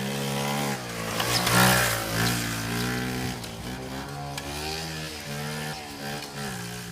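Vintage Honda Z50 minibike's small four-stroke single-cylinder engine being ridden, its revs rising and falling several times, loudest about one and a half seconds in, over a steadier engine tone underneath.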